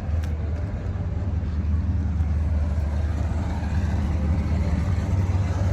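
A steady low rumble with a faint hiss above it, unchanged throughout.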